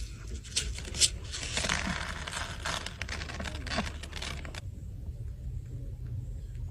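Scraping and rustling of something being handled, with a couple of sharp clicks in the first second, which stops abruptly about four and a half seconds in and leaves a low hum.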